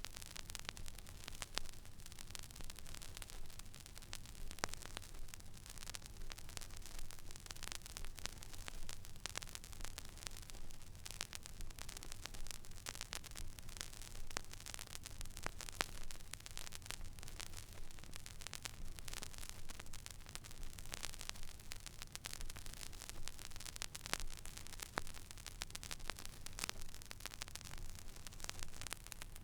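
Record player stylus running in the empty groove of a vinyl record: steady surface hiss with frequent small crackles and pops over a low hum.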